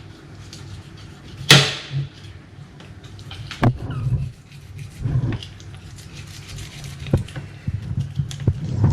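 Knocks and scrapes of a knife and fish on a filleting table while fish are filleted, the sharpest knock about a second and a half in, over a steady low hum.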